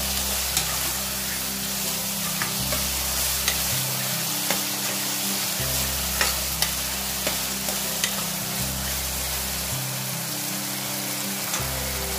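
Chopped tomatoes, onion and green chillies sizzling in hot oil in a metal pan, stirred with a metal ladle that clicks and scrapes against the pan every second or so. This is the tomatoes being fried down until soft.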